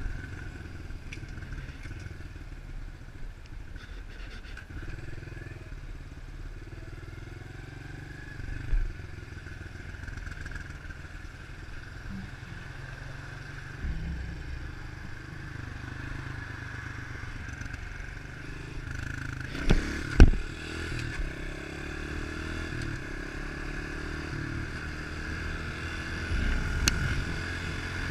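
A 110cc pit bike's four-stroke single-cylinder engine running while the bike is ridden, its note rising and falling with the throttle. Two sharp knocks about 20 seconds in are the loudest sounds.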